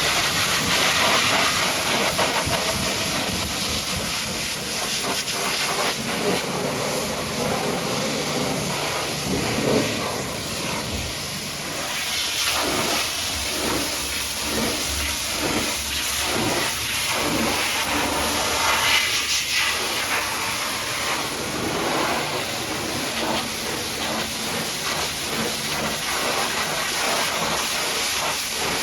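High-pressure washer jet spraying water against a surface: a steady loud hiss that flutters and wavers for a stretch in the middle.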